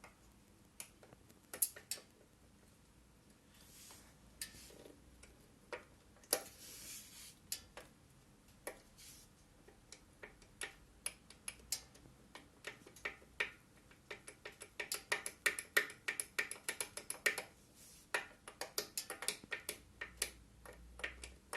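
Yamaha XV1700 Midnight Star's front brake caliper making light, sharp metallic clicks, a few scattered at first, then many in quick succession in the last several seconds. It is the brake pads knocking on the pad pin in the caliper, the clack heard from the front end on uneven roads, which goes away when the brake is held.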